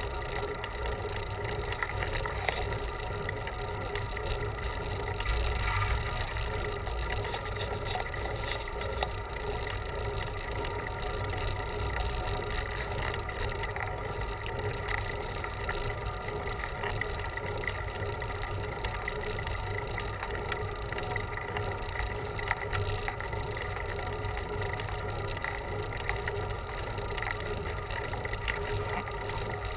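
Steady road noise of a bicycle being ridden on a paved road, with a low rumble that swells briefly about five seconds in.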